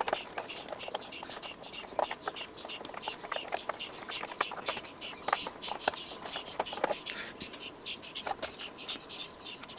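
Small birds chirping rapidly and continuously, with a few light clicks and knocks from handling small metal hardware.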